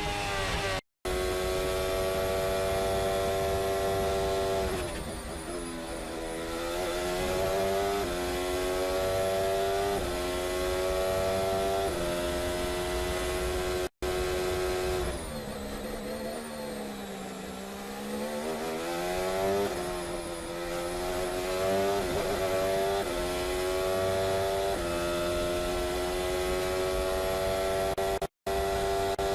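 Race car engine revving through the gears, its pitch climbing and then stepping or dipping again and again. The sound cuts out abruptly three times.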